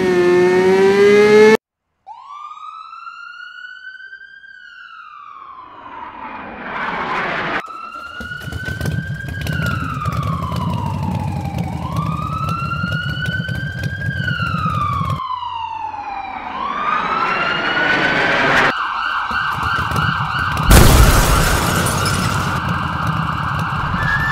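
Police siren wailing, its pitch rising and falling slowly about every four seconds. Near the end it changes to a steadier, fast-wavering high tone, with a loud burst of noise about three-quarters of the way through.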